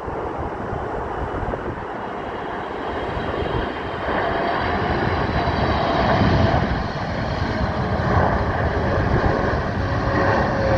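Boeing 777-300ER's GE90-115B jet engines at high thrust during a go-around: a heavy rumble with whining tones over it, growing louder about four seconds in.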